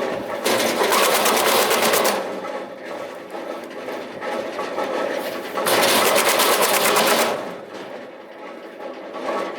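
Electric drum wood chipper chipping sawmill offcuts and slabs: two bursts of rapid knocking, about a second in and again past the middle, as wood feeds through the knives, with the machine running more quietly between them.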